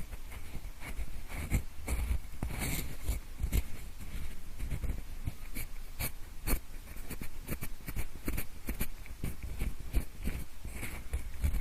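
Pencil scratching and tapping close to the microphone in the style of ear-cleaning ASMR: dense, irregular scrapes and small clicks with a low rumble underneath.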